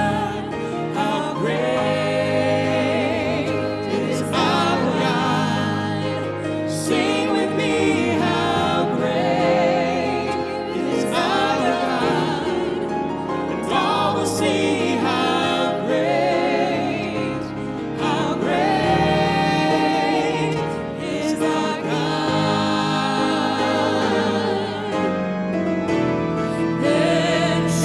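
Several voices singing a worship hymn with instrumental accompaniment, the voices held in long notes with vibrato.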